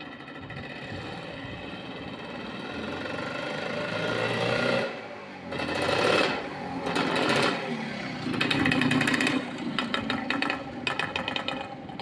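1981 Yamaha YZ250's two-stroke single-cylinder engine, fitted with new rings and piston, running and being revved. The pitch and loudness climb gradually at first, then it is blipped up and down several times, dropping back between revs.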